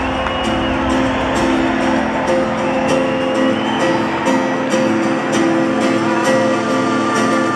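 Live rock band music in an arena: strummed guitar over held keyboard chords, the strums landing about twice a second.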